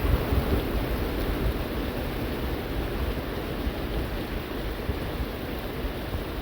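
Rain falling steadily, an even hiss, with a low rumble underneath.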